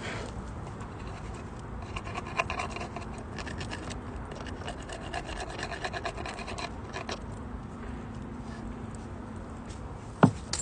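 Firewood burning in a Uniflame Nature Stove Large, crackling with scattered small pops, then one loud sharp pop about ten seconds in.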